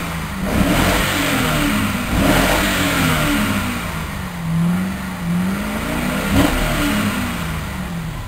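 2008 Holden Commodore's 6.0-litre V8 revved in Park, held around 3,000 rpm, its pitch rising and falling with the throttle and a few louder surges. Heard from inside the cabin.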